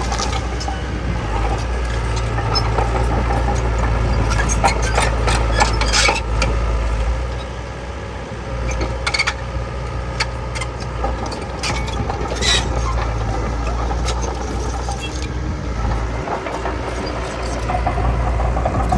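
Heavy diesel earthmoving machine running steadily, with scattered sharp metal clanks and knocks.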